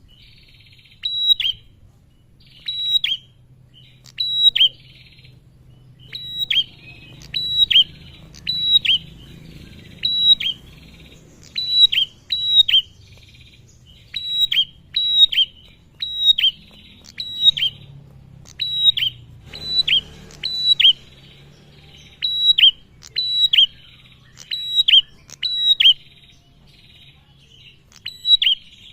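Male prinia (prenjak) calling: short, sharp, down-slurred notes repeated in quick clusters of two or three, with a cluster about every second or so, over a faint low hum.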